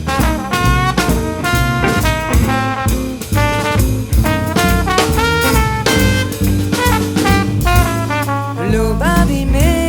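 Jazz quintet playing an instrumental swing-blues passage: saxophone and trombone lines over drum kit, double bass and guitar, in quick runs of short notes with a note sliding upward near the end.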